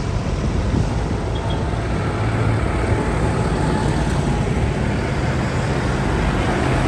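Diesel tractor engine running steadily with a low, even hum.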